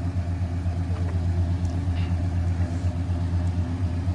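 Box-body Chevrolet Caprice engine idling steadily with an even low hum.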